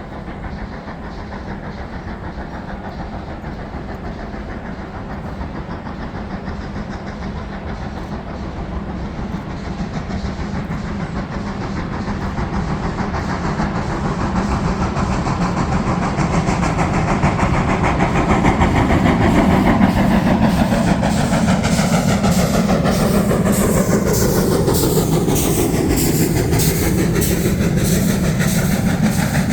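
Steam-hauled train approaching and passing close by. Its noise builds steadily to its loudest about two-thirds of the way through, with the wheels clicking quickly over the rail joints as it goes past.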